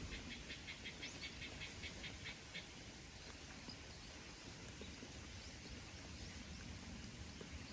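A small animal chirping in a fast, even series of short high notes, about five a second, stopping about two and a half seconds in, over quiet outdoor ambience.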